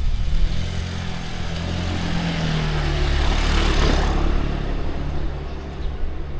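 A motor vehicle passing by with its engine humming and its tyres hissing on the wet road, growing louder to a peak about four seconds in, then fading.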